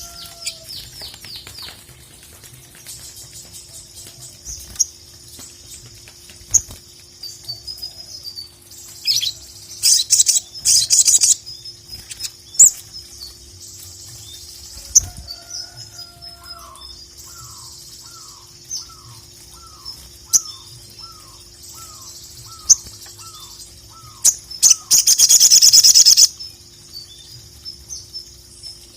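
Sogon (sogok ontong sunbird) singing a long, high-pitched chattering song of thin trills, bird sounds meant to rouse rival birds. A lower whistle repeats about twice a second in the middle, and two loud noisy bursts break in, about ten seconds in and again around twenty-five seconds in.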